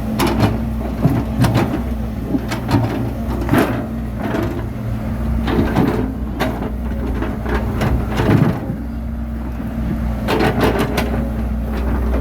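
Bulldozer's diesel engine running steadily under work, with repeated metallic clanks and knocks from the machine as it moves and pushes soil.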